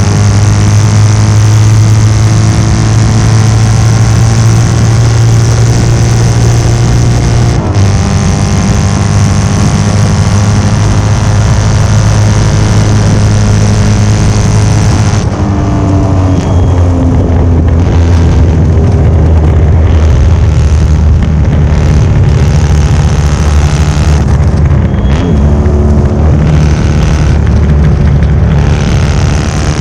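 1972 Norton 750 short-stroke parallel-twin racing engine at high revs under full throttle. It makes a quick gear change about eight seconds in, then the revs fall away around the middle as the bike slows, and pick up and drop again through the rest.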